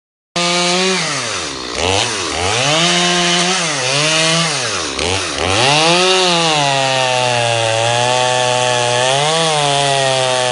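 Gas chainsaw running hard, its engine pitch dropping and climbing back several times in the first half as it loads up in the cut, then holding steadier at a lower pitch.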